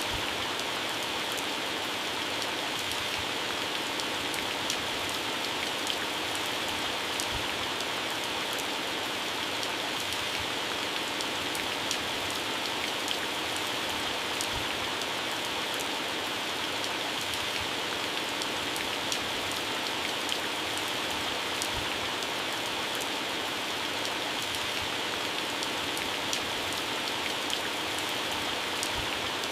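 Heavy rain falling on garden plants and grass: a steady, even hiss with scattered sharper ticks of drops striking leaves.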